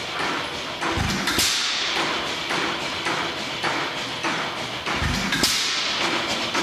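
1915 Rawleigh-Schryer 4 hp hit-and-miss engine running. It fires with a deep thump about a second in and again about four seconds later, coasting between firings with a regular clicking about twice a second.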